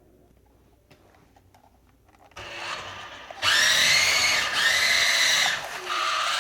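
Twin electric motors of a Tyco Twin Turbo Porsche 962 RC car, run on a 9.6-volt pack, whining at full throttle. After a couple of quiet seconds the whine starts low, jumps loud about three and a half seconds in, and runs in two long bursts with a brief drop in between as the car accelerates.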